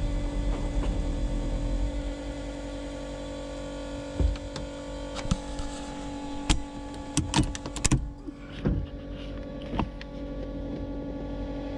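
A small electric motor on the Corvette drag car whines steadily at one pitch, with a low rumble in the first couple of seconds and several sharp clicks and knocks in the second half.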